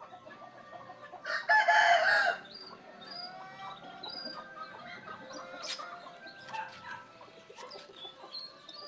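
A rooster crows once, loudly, about a second in, its call lasting about a second. Short faint bird chirps and clucks follow throughout.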